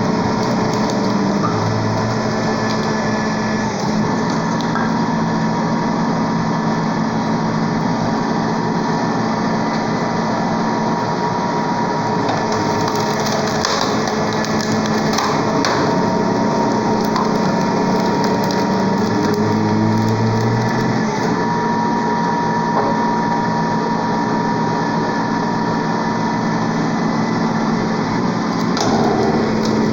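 Hydraulic log splitter running, its motor and pump giving a steady hum whose low tone shifts a few times as the load changes. A few faint clicks come near the middle.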